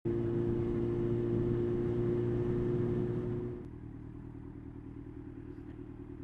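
Motorcycle engine running steadily under way, with a strong steady note that drops to a quieter, lower note about three and a half seconds in.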